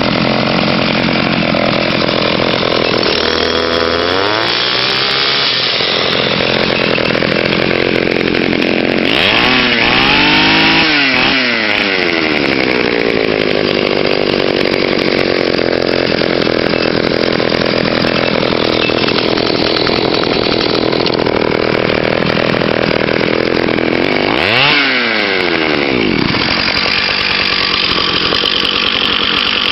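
Small two-stroke engines running with a continuous buzz, one of them revved up and let back down three times.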